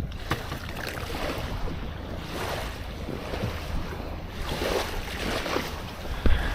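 Wind buffeting the microphone over open water, with waves lapping, and a louder low thump of wind near the end.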